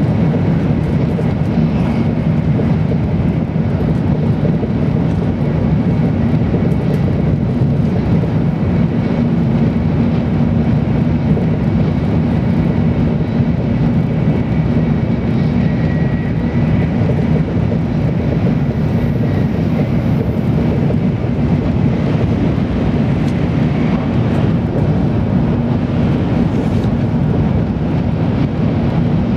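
Steady running noise inside a passenger car of an N700-series Tokaido Shinkansen moving at speed: an even low rumble of wheels, track and air. A faint high whine comes and goes around the middle.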